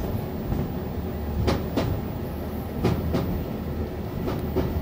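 A Wolmi Sea Train car running along its elevated track, heard from inside the car: a steady low rumble with pairs of sharp clacks about every second and a half.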